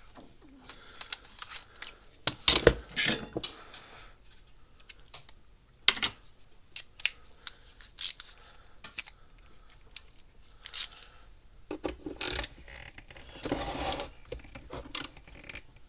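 Scattered clicks and short scrapes of a hex bit working at a tamper-proof Allen-head screw. The bit keeps slipping because it won't seat flush and grab.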